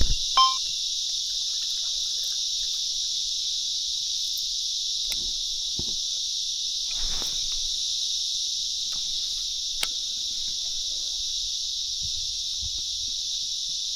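A steady, high-pitched drone from a chorus of insects, unbroken throughout, with a few soft knocks.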